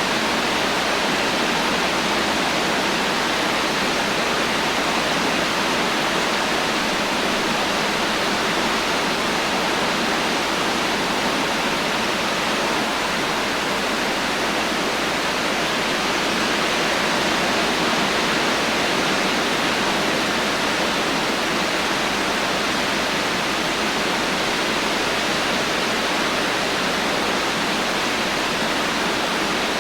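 Heavy rain falling, a dense, steady hiss with no thunder.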